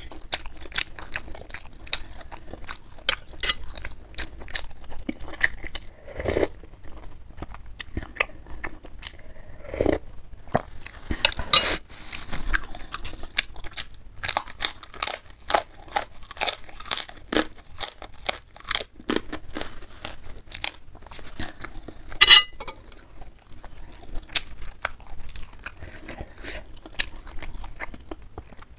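Close-miked chewing and crunching of food, with crisp, crackling bites of a crunchy cracker eaten alongside beef meatball soup.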